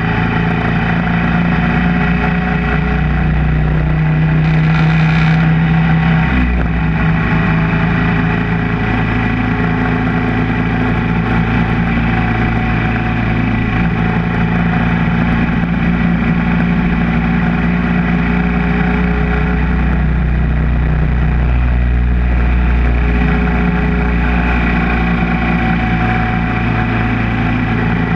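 Royal Enfield Thunderbird 500's single-cylinder engine running steadily under way, heard from the moving motorcycle. The engine note changes about six seconds in.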